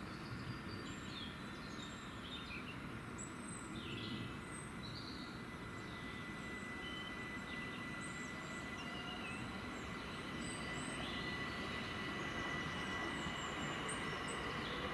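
A Southern Class 377 electric multiple unit approaching along the track. Its steady whine and low rumble grow gradually louder as it nears.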